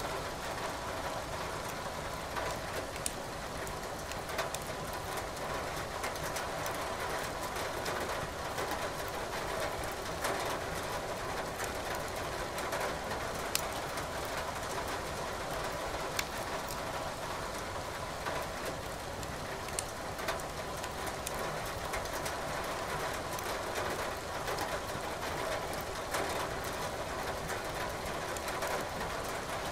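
Steady rain hiss with a wood fire in a fireplace crackling, sharp pops scattered every few seconds.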